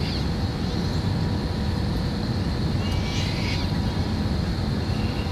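Airliner noise: a steady low rumble with a thin, steady high whine. A brief high-pitched squeak comes about three seconds in.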